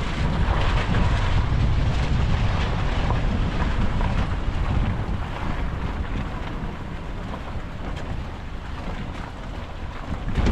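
Strong wind gusting over a high mountain pass and buffeting the microphone, a loud rumbling rush that eases off slightly in the second half.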